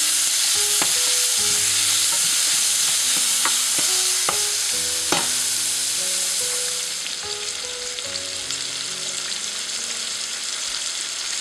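Sliced tomatoes and aromatics sizzling in hot oil in a stainless steel pot, stirred with a utensil that clicks against the pot a few times in the first five seconds. The sizzle eases about seven seconds in.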